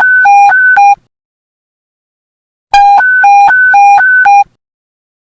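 Police radio panic-button alert tone: a loud two-tone beep alternating low and high, about four notes a second. One burst cuts off about a second in, and another starts just before three seconds and stops suddenly about a second and a half later.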